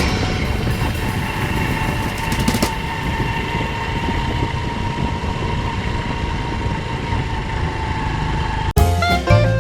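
A small motorcycle running at a steady speed, with a steady hum and road noise. It cuts off suddenly near the end and music with drums starts.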